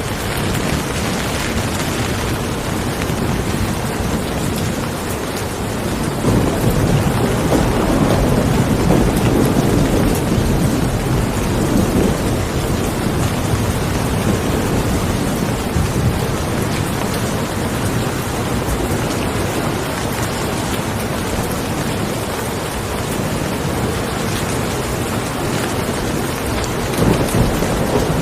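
Steady, heavy rain falling, with a low rumble that swells in about six seconds in and dies away by about twelve seconds, and a smaller swell near the end.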